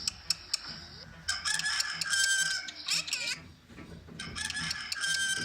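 Bird calls in two bouts of long, wavering, gliding notes, with a few sharp clicks near the start.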